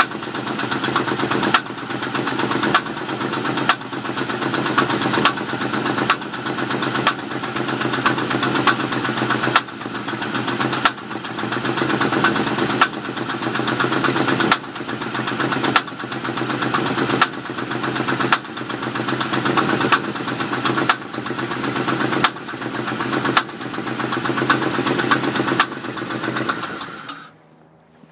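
Pontiac Trans Am WS6's 5.7-litre LS1 V8 running at idle, with a sharp dip and swell in level about once a second. It shuts off about 27 seconds in. The engine is being recorded for an irregular clang or knock.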